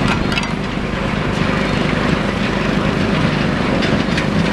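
Heavy engines running steadily with a low hum, with scattered knocks and clanks over the top.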